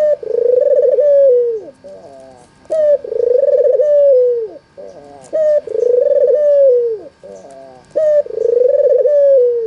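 White, red-eyed (albino) puter dove cooing over and over: four long coos, each about a second and a half long and about every two and a half seconds, with short stuttering notes between them.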